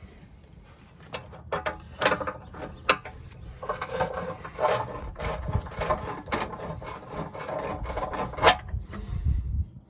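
Hand tools and metal tire parts being handled: irregular knocks, clinks and scraping, with a sharp clank about eight and a half seconds in.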